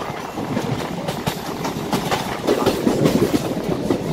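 MEMU electric train running along the track, heard from on board: a dense rattle of wheels on rails with frequent sharp clacks, growing louder about two and a half seconds in.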